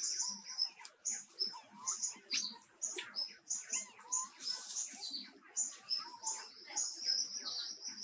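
Birds calling in a forest: a rapid string of short high chirps, about three a second, with assorted squeaks and whistling calls between them, and a brief hiss about halfway through.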